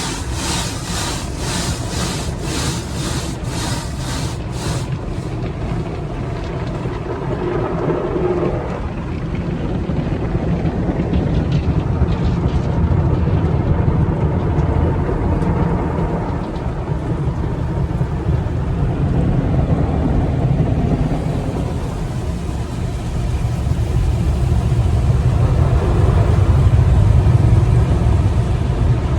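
Automatic car wash machinery at work: rhythmic slapping about twice a second for the first few seconds, then a steady low rumble that builds toward the end.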